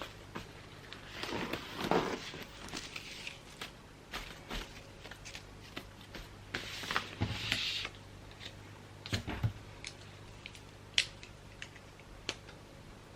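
Gift wrapping: wrapping paper being handled, crinkling and rustling in irregular spells, with scattered light taps and clicks and one sharper click about eleven seconds in.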